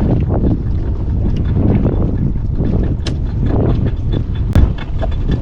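Wind buffeting the microphone aboard a small boat at sea, making a loud, steady low rumble. Two sharp knocks come through it, one about three seconds in and a louder one near the end.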